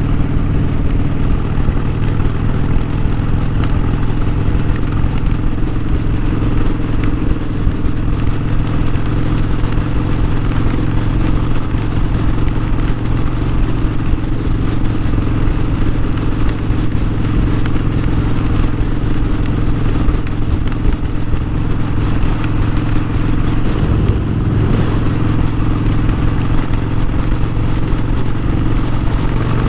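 Harley-Davidson Sportster 1200's air-cooled V-twin engine running at a steady pitch while the motorcycle is ridden.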